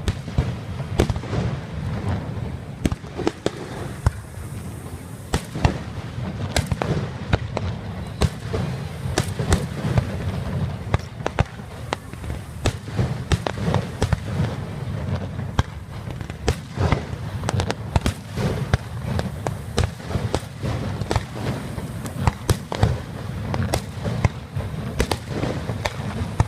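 Fireworks going off: many sharp bangs and crackles in quick, irregular succession, over a steady low rumble.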